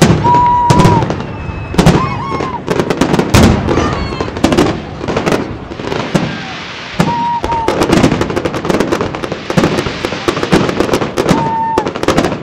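Fireworks display: rapid bangs of aerial shells bursting one after another, with a dense crackling stretch in the second half. A few short, held high tones sound among the bangs.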